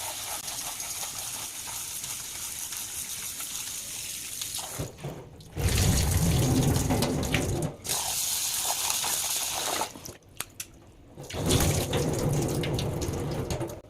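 Tap water running into a bowl of poha (flattened rice) as it is rinsed. The flow breaks off twice and comes back louder and fuller about halfway through, as the water splashes on the rice.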